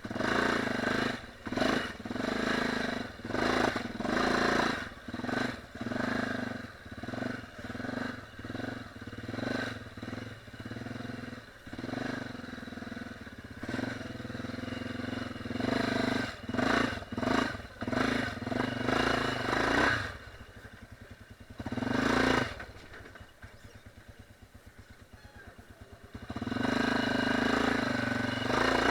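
Dirt bike engine, blipped on and off the throttle in quick surges about once a second, then settling to a low idle about two-thirds of the way in, with one short rev during the idle, and picking up revs again near the end.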